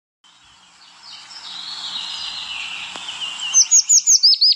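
Birdsong: a chorus of high chirping birds fades in, then about three and a half seconds in one bird starts a loud, fast run of sharp downward-sweeping whistled notes, about six a second.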